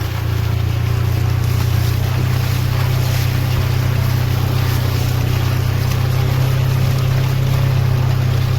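Ranger utility vehicle's engine running steadily as it drives, a low drone under a constant rushing noise.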